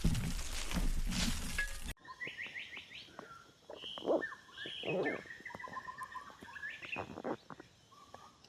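Loud rustling, crunching noise for about two seconds, then cuts off suddenly to several wild birds chirping and trilling, with a few soft rustles among the calls.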